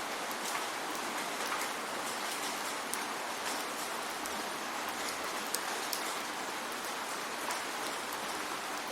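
Steady rain falling, a constant hiss with scattered individual drops landing as sharp ticks.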